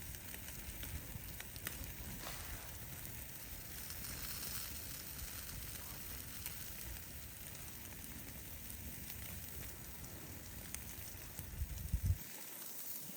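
Food sizzling over a campfire, a steady hiss with scattered crackles from the fire. A few louder knocks come shortly before the end.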